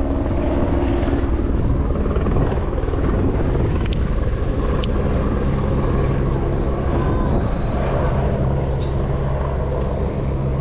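Steady engine drone with a constant low hum, and a few faint clicks in the middle.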